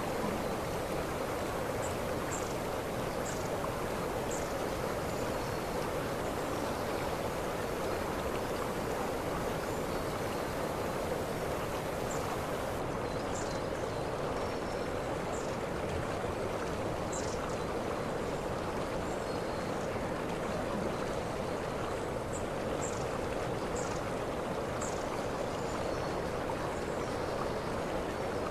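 Steady rush of a waterfall, with short high chirps scattered through it.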